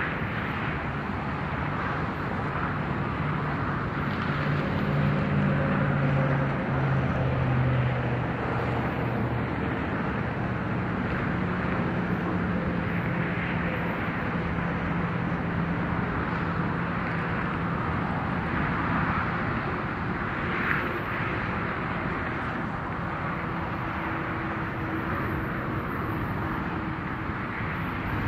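Diesel freight train running past: a steady rumble and rush, with low engine tones that step down in pitch about five seconds in and then hold steady.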